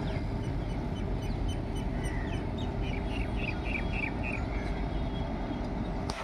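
Bird calls over a steady low rumble, with a quick run of about six short, evenly spaced chirps near the middle.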